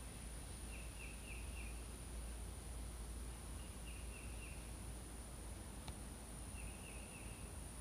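Outdoor ambience: a steady high insect drone, with a bird giving three short bursts of three or four quick chirps.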